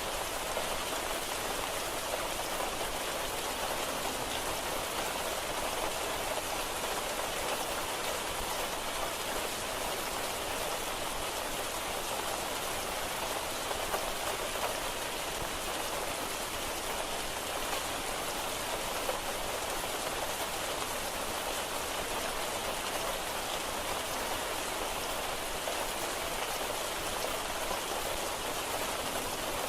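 Steady rain falling, an even hiss of many drops at an unchanging level.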